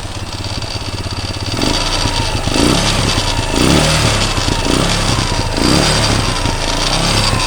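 Honda FTR 230 single-cylinder four-stroke motorcycle engine idling, then revved up and down repeatedly from about a second and a half in, its pitch rising and falling about once a second.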